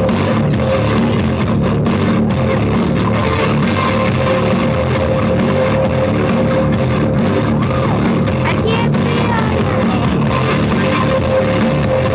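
Loud rock or heavy-metal music with distorted guitar and drums, playing steadily.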